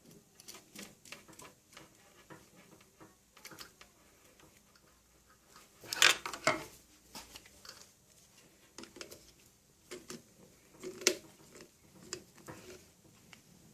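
Small metal clicks and scrapes of a wire connection being fitted onto a terminal and tightened by hand, irregular and light, with two louder clusters of clicks partway through.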